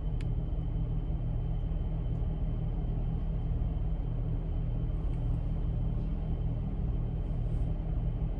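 Steady low rumble of a car idling, heard from inside the cabin, with a faint high steady tone over it.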